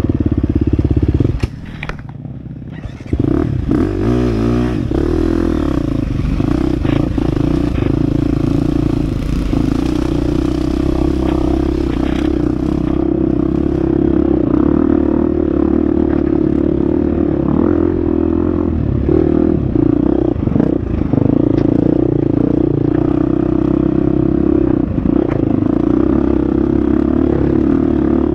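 Husqvarna FX 350 dirt bike's four-stroke single-cylinder engine running on a trail lap, dropping off briefly between about one and a half and three seconds in, then pulling steadily again.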